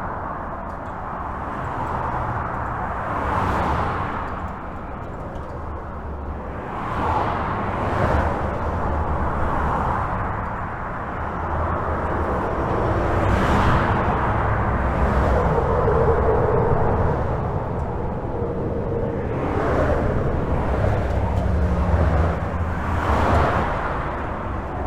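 Continuous highway traffic heard from beneath a bridge: a steady tyre and engine rumble with vehicles passing one after another every few seconds, each swelling and fading.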